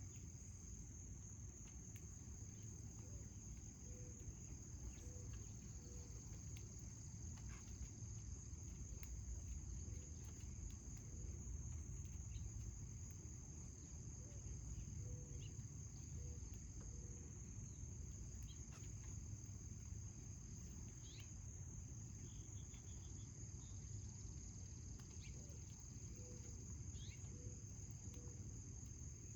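Crickets trilling in a steady, unbroken high-pitched chorus, faint, over a low outdoor rumble.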